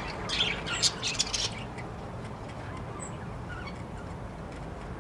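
Budgies chirping: a quick burst of rapid, scratchy chirps in the first second and a half, then a couple of faint single chirps.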